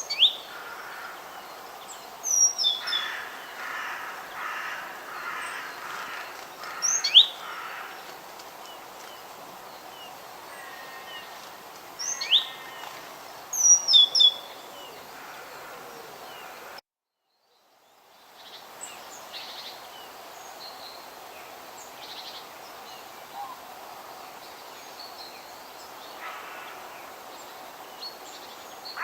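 Forest birds chirping and calling over a steady outdoor background hiss, with several sharp, high sweeping chirps in the first half. About two-thirds through the sound cuts out to dead silence for about a second, then the birdsong resumes more faintly.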